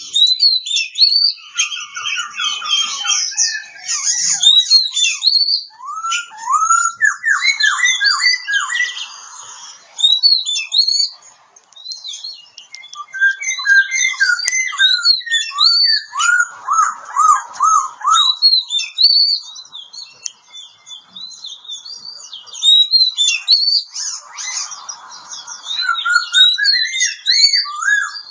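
Oriental magpie-robin (kacer) singing a long, varied song of clear whistles, rising slurred notes and fast runs of repeated notes, with a brief pause about halfway through.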